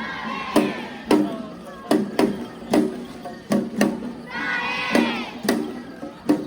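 Festival drum struck in a steady beat, each stroke with a short pitched ring, under a shouting crowd; a loud burst of massed shouting about four and a half seconds in.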